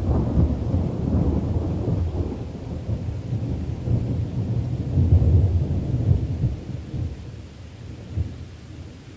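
Deep rolling thunder rumbling over steady rain. It swells again about five seconds in, then dies away toward the end.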